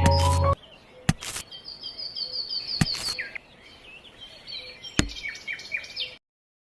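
Background music that cuts off about half a second in, then birds chirping in quick high runs, with a few sharp clicks among them. The sound drops out to total silence shortly before the end.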